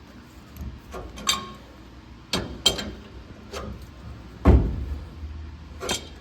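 Adjustable wrenches clinking and knocking on the rear suspension's pinion-angle adjuster while it is being turned: a string of separate metal clanks, the loudest with a dull thump about four and a half seconds in.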